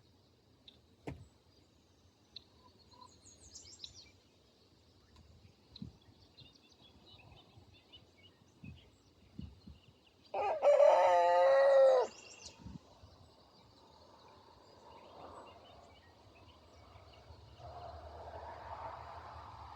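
A rooster crows once, loud and wavering, about halfway through. Around it are scattered soft knocks, small high bird chirps and faint clucking near the end.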